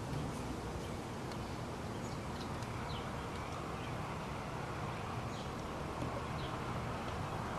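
Outdoor ambience: a steady low rush with a few short, high bird chirps scattered through it.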